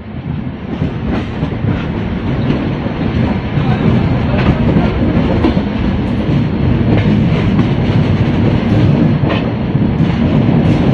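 Push-pull Rajdhani Express passenger train moving on the rails: a steady low rumble of running gear with faint scattered wheel clicks, fading up over the first second or two.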